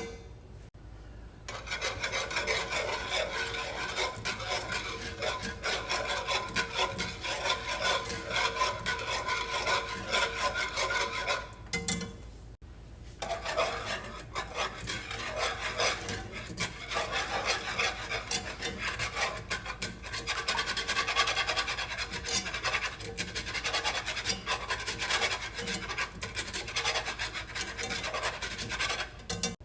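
A whisk scraping rapidly and continuously against the bottom of a pan, stirring country gravy made with milk while it thickens. The scraping stops briefly about twelve seconds in, then resumes.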